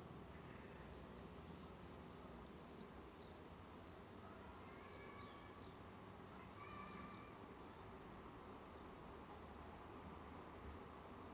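Faint birdsong: a long run of short, high, arching chirps repeated one after another, with a few lower whistled notes in the middle, over a steady low background noise.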